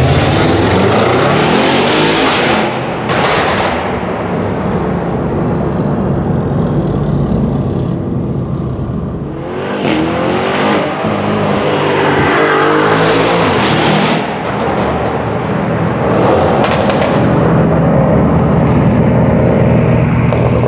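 Audi RS6 Avant C7's twin-turbo 4.0 V8 through a Milltek exhaust, accelerating hard in several pulls with the engine pitch climbing. Sharp exhaust cracks come a few times between pulls.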